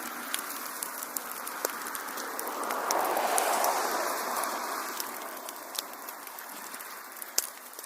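Wood fire crackling, with frequent small sharp pops over a soft rushing of the flames that swells about three seconds in and then eases.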